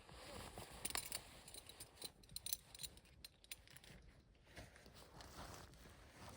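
Faint rustling with scattered small clicks and ticks, as of gear being handled.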